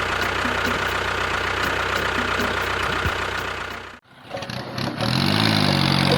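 An engine running steadily with a low hum, cut off abruptly about four seconds in. After a short hush another engine starts, its pitch rising and falling before it settles to a steady run.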